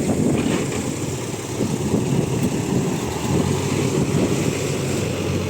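Heavy truck engine running steadily with a low rumble, during a push-start of a truck with a dead battery.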